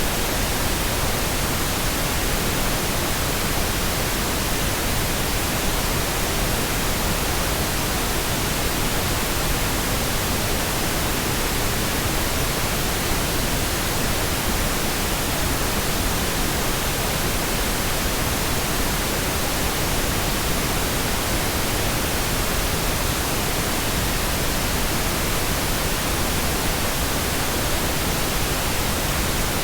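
Steady, unchanging pink noise: an even hiss spread across the whole range of pitches, with no events or changes.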